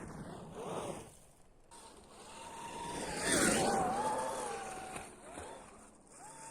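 Electric dirt bike with a QS138 motor riding past on snow: a wavering electric whine over a rushing noise, growing to a peak about three seconds in and then fading away.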